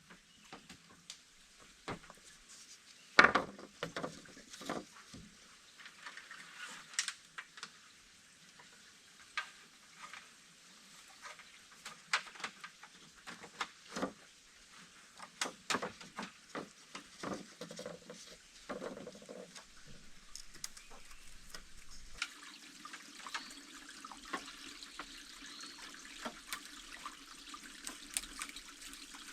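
Irregular light knocks and clicks, the loudest about three seconds in, then a steady trickle of running water begins about two-thirds of the way through.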